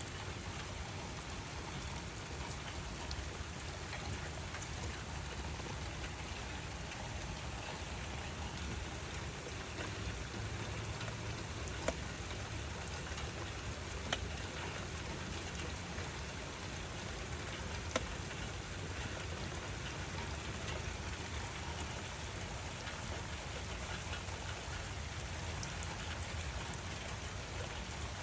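Steady rain falling, with a few sharp individual drop hits standing out now and then.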